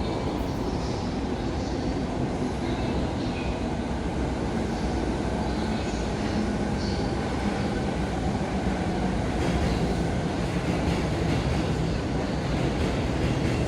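Electric train running along a station platform: a steady rumble of wheels on rail that slowly gets louder.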